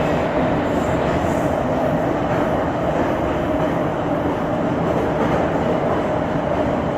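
Moscow Metro 81-717.5M/81-714.5M 'Nomernoy' train running at speed through the tunnel, heard from inside the car: a steady rumble of wheels and running gear with a held mid-pitched tone.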